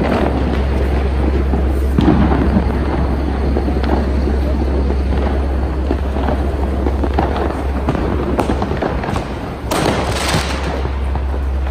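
Fireworks and firecrackers going off all around: a dense crackle of repeated sharp bangs, with one louder blast about ten seconds in.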